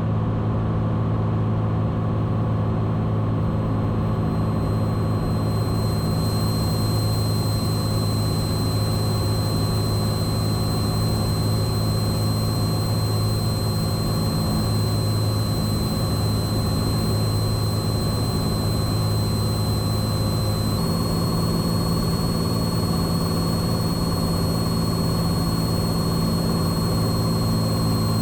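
Cessna 182 Skylane's six-cylinder engine and propeller droning steadily in cruise on the downwind leg, heard inside the cabin. A thin high whine joins about six seconds in.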